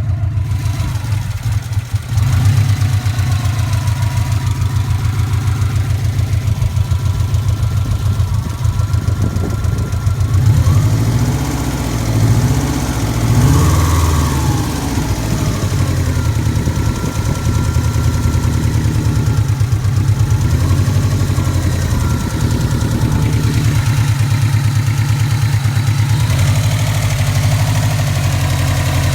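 Classic Subaru Impreza's flat-four engine idling with a steady, fast ticking, with a brief rise in revs about halfway through. The ticking is still there when warm after a bottom-end rebuild, and the owner wonders whether it is the shimmed valve buckets or rod knock.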